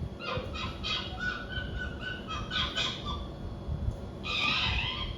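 An animal calling: a run of short, high chirps several times a second, then a louder, harsher call about four seconds in.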